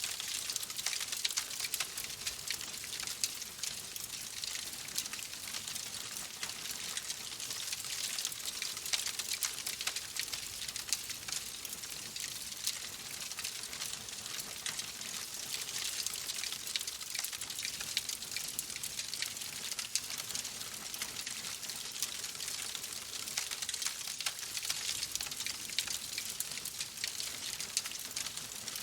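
Fireplace fire crackling: a steady hiss dense with small sharp pops and snaps.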